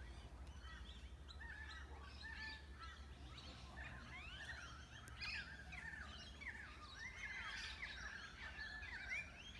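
A chorus of many distant birds of an unidentified species, a dense tangle of short rising and falling calls that grows busier about four seconds in, over a low steady rumble.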